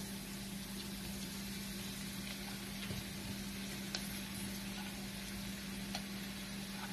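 Diced sausage, hot dog and vegetables frying in a non-stick pan: a steady sizzle while cooked rice is added by hand, with a steady low hum underneath and a couple of faint clicks.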